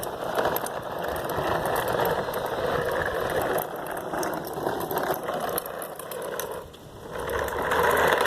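Plastic wheels of a toy garbage truck rolling and rattling down a driveway, a steady clattering run that drops away briefly near the end and then picks up louder.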